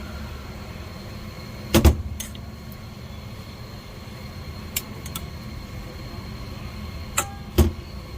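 Steady low rumble with a handful of sharp knocks or clacks, the loudest about two seconds in and another near the end.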